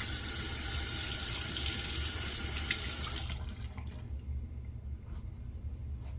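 Bathroom tap running water into a sink for about three seconds, then shut off, followed by a few faint small knocks.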